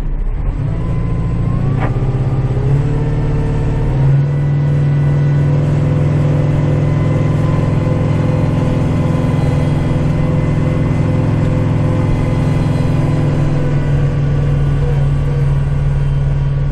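Kubota tractor's diesel engine revving up over the first few seconds, then running steadily at high revs to drive the snowblower.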